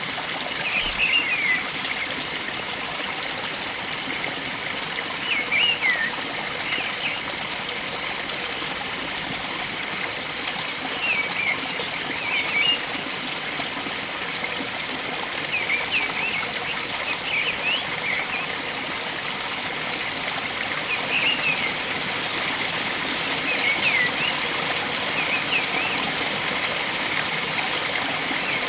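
Steady rush of a flowing stream, with a bird giving short chirping calls that sweep in pitch, repeated every few seconds.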